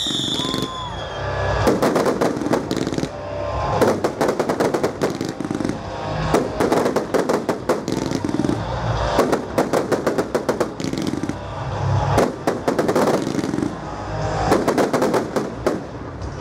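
Fireworks display: clusters of rapid bangs and crackles come every couple of seconds, with music playing along with the show.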